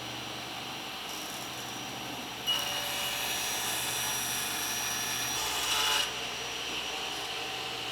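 A power tool running steadily against wood, with a steady whine under a hiss. It gets louder and brighter about a third of the way in, then drops back near the end.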